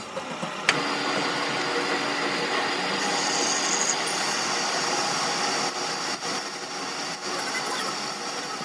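A power tool in a metal workshop: after a sharp click about a second in, it runs steadily with a hissing, grinding-type noise that brightens a few seconds later.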